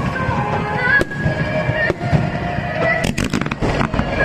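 Fireworks bursting over music: a single bang about a second in, then a quick cluster of rapid crackling bangs a little after three seconds.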